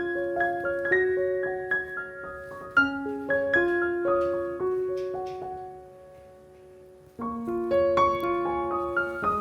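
Background piano music: a gentle melody of struck notes that fades out about six seconds in, with a new phrase starting about a second later.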